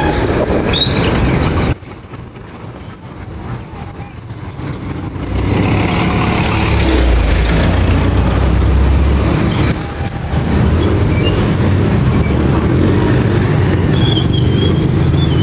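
Road vehicle and traffic noise with a low engine rumble. It drops suddenly about two seconds in and swells louder from about five seconds in.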